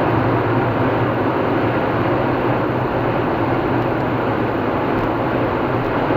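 Steady road noise of a car driving at speed on a motorway: tyre roar and engine hum, unchanging throughout.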